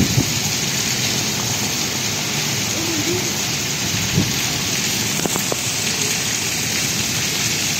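Heavy rain pouring down steadily: an even, dense hiss of rain hitting the flooded street and roofs.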